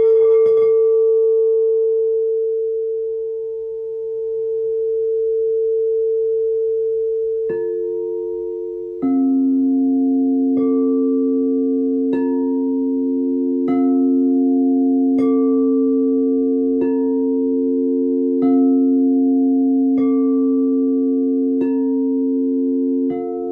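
A singing bowl rings with a slow wavering swell. About a third of the way in, tuned metal notes begin to be struck, one every second and a half or so, each ringing on and building with the bowl into a sustained chord.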